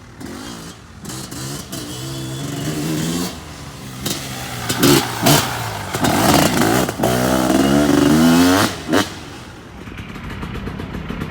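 Motorcycle engine revving, its pitch rising and falling several times and loudest in the middle, then settling back to a lower, steady run near the end.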